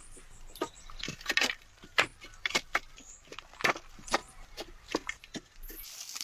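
Dry twigs and sticks cracking and crunching in an irregular run of sharp snaps.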